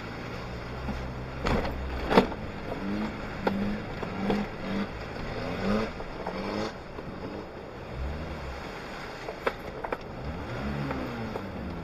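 Suzuki Jimny engine heard from inside the cabin while driving off-road, its pitch rising and falling with the throttle. Sharp knocks and rattles from the cabin come through now and then, the loudest about two seconds in.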